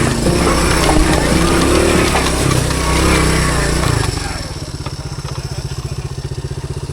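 Honda CT110 postie bike's small single-cylinder four-stroke engine running under way with wind noise, then dropping about four seconds in to a steady, fast-pulsing idle.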